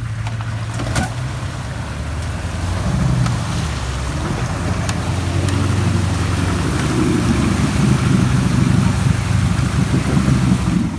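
Four-wheel-drive vehicle engine working under load, its revs rising and falling and growing louder, with a couple of brief knocks.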